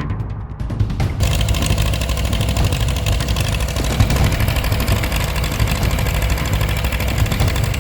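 1944 Farmall H tractor's four-cylinder engine running. About a second in it gets louder, with a rough, hissing edge on top of a steady low rumble.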